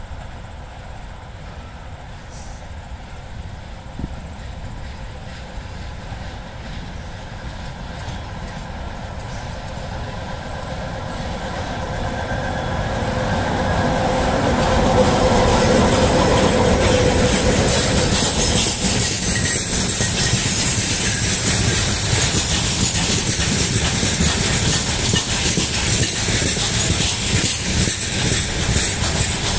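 VL80S electric locomotive with a freight train approaching and passing, growing louder until the locomotive goes by about halfway through, with a steady hum as it passes. Then the hopper wagons roll past with a continuous clickety-clack of wheels over rail joints and a thin high whine.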